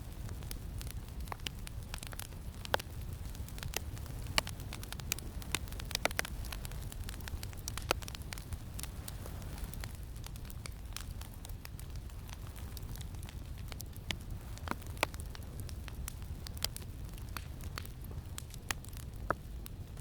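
Campfire crackling, with irregular sharp pops and snaps over a steady low wind rumble.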